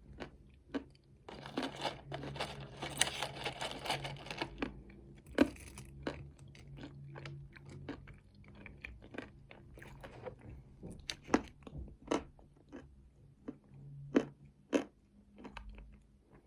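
Close-miked chewing of nuts with chocolate paste: a dense run of crunching from about one to four and a half seconds in, then slower chewing broken by single sharp crunches.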